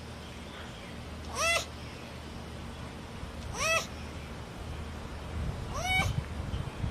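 An animal giving three short, meow-like cries about two seconds apart, each rising and then falling in pitch.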